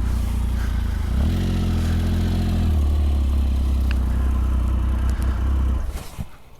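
Motorcycle engine running steadily at low revs. A second engine note joins about a second in for a couple of seconds, and the engine sound stops near the end.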